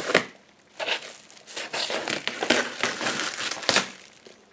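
Parcel packaging crinkling and rustling as a cardboard box is opened and unpacked: an irregular run of crackles and rustles, with a sharp crackle right at the start and the busiest rustling from about two to four seconds in.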